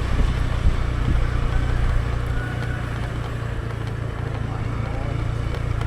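Riding a motorbike: wind buffeting the microphone over the engine's steady low hum, a continuous rumble.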